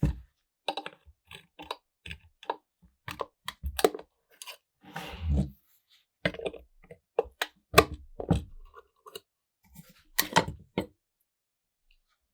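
Irregular clicks and light knocks of small parts being handled, with a short scraping rustle about five seconds in; the sounds stop about a second before the end.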